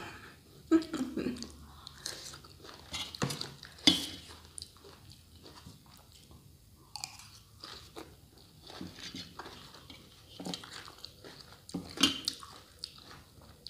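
Close-up crunchy chewing and biting of shredded green mango salad, irregular crisp crunches with sharper bites about one and four seconds in and again near the end.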